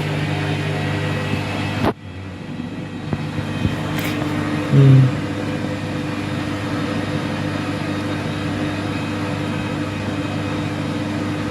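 Washing machine running through its cycle, its motor and drum giving a steady hum. The hum drops suddenly about two seconds in, and a short, louder low sound comes about five seconds in.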